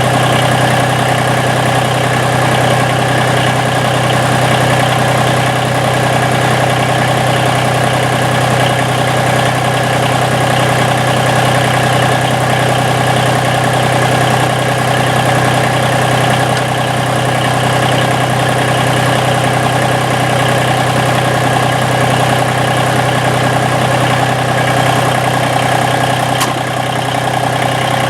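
Massey Ferguson GC1720 sub-compact tractor's diesel engine running steadily at a constant speed, while its slow hydrostatic reverse is tried out after an adjustment of the reverse limit bolt.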